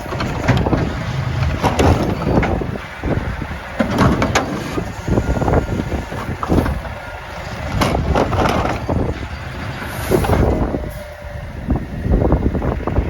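Mack LR garbage truck with a McNeilus Meridian body running, with gusts of wind buffeting the microphone in uneven surges and a few sharp knocks.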